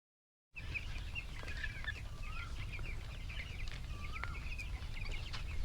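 A flock of 12-day-old broiler chicks peeping: many short, high chirps overlapping, with a few longer calls that rise and fall, over a low steady rumble. The sound cuts in suddenly about half a second in.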